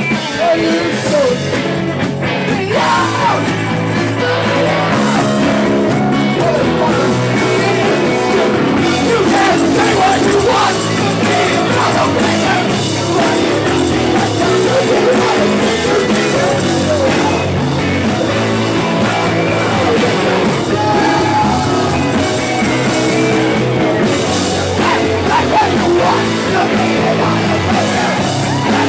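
A live rock band playing at full volume, with a singer whose voice is raised close to yelling.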